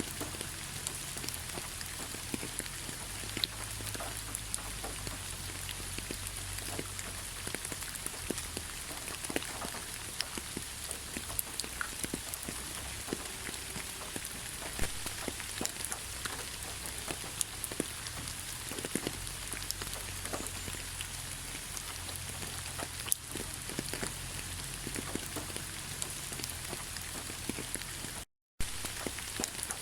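Heavy rain falling: a steady hiss scattered with many sharp hits of individual drops. Near the end the sound cuts out completely for a split second.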